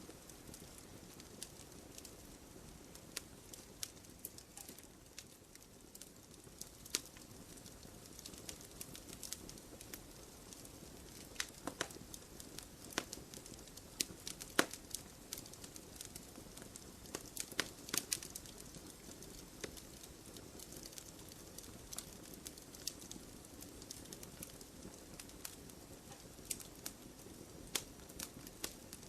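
Wood fire burning with a low steady hiss and irregular sharp crackles and pops, a few louder pops scattered through.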